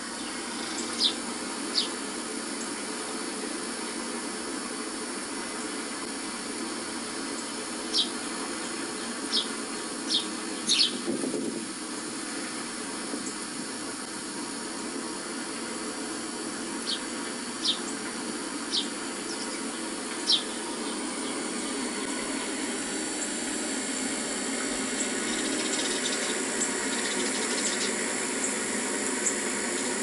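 Short, sharp bird chirps, about ten of them in small clusters, over a steady background hiss; faint thin high calls come in near the end.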